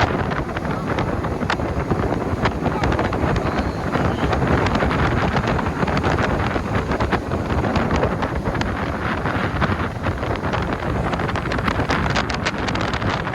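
Wind buffeting the microphone on a moving motorboat: a loud, steady rush with constant crackling gusts, over the boat's running.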